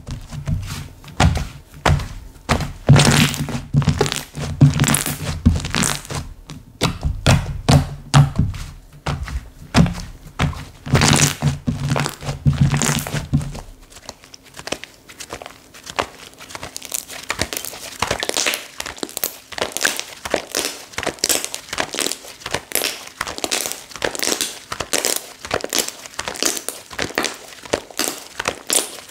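Hands squishing and pressing slime: a dense run of sticky pops, clicks and crackles. Deeper thuds run under them until about halfway, then stop, leaving lighter crackling.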